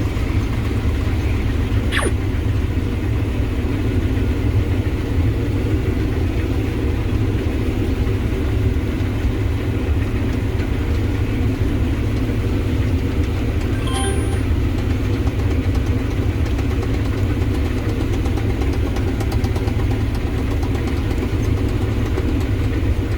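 Combine harvester running while cutting wheat: a steady low drone of engine and threshing machinery.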